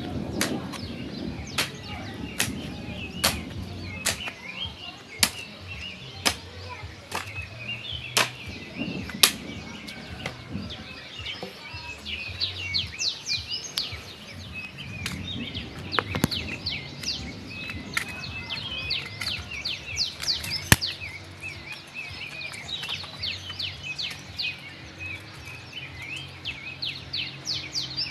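Small birds chirping and singing, busiest in the second half, with a run of sharp clicks about once a second through the first ten seconds.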